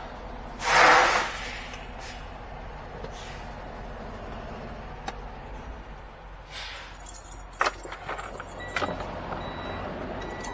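Semi truck idling with a steady low rumble; about a second in a short, loud burst of air hiss, as when the parking brake is set after pulling up to the pump. A few sharp clicks follow later on.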